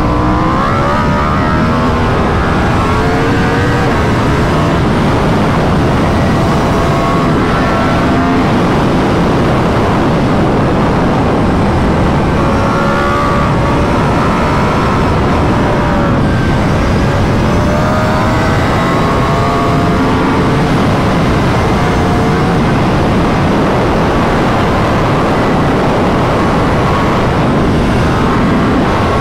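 2021 Yamaha R1's crossplane inline-four engine through an Akrapovic full titanium exhaust with its dB killer fitted, recorded onboard at track speed. The engine note rises and falls again and again as the bike accelerates and slows.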